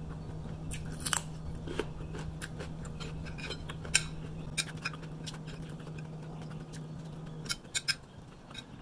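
Crisp crunching of a raw cucumber being chewed, mixed with clicks of a fork and spoon scraping and tapping on a plate. A steady low hum underneath stops near the end.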